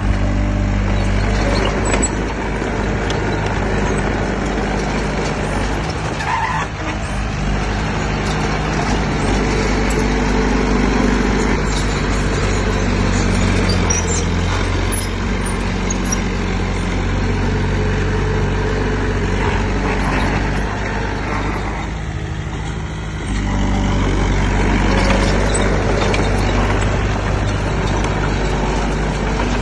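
Heavy diesel engine of earthmoving equipment running hard under load, with a steady low engine note that eases off briefly about six seconds in and again around twenty-two seconds in before picking back up.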